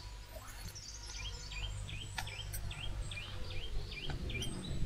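A small bird repeating a short, sharp chirp about three times a second, over a steady low rumble.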